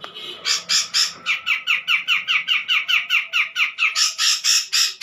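Cucak jenggot (grey-cheeked bulbul) giving a fast, harsh chattering series of short high notes, about six a second, louder and fuller near the end.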